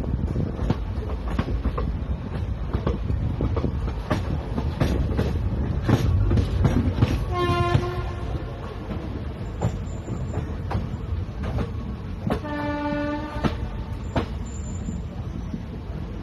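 Passenger train rolling slowly on the track: a steady low rumble with irregular sharp clicks of the wheels over rail joints. A train horn sounds twice, a short blast a little before halfway and a lower, roughly one-second blast a few seconds later.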